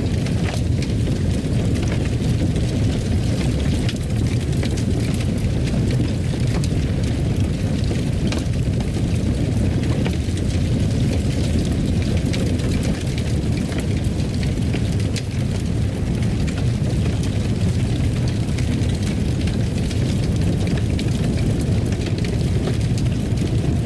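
Wood fire burning with a steady low roar and frequent small crackles and pops.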